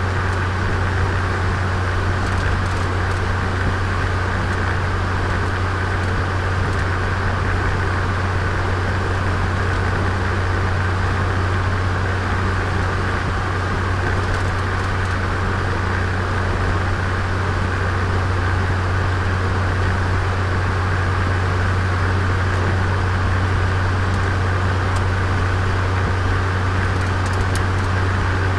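Turbocharged Nissan Micra engine running steadily during its break-in, with a constant low hum and no revving up or down.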